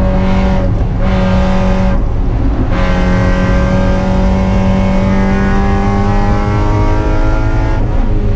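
Spec Miata's four-cylinder engine pulling hard. The note breaks off briefly twice in the first three seconds, then rises slowly through a long stretch and breaks once more near the end, as it would at gear changes or lifts.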